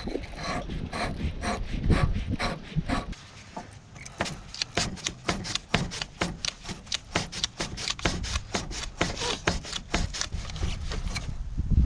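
A brush scrubbing a corroded battery terminal in quick back-and-forth strokes, several a second, with the strokes coming fastest from about four seconds in.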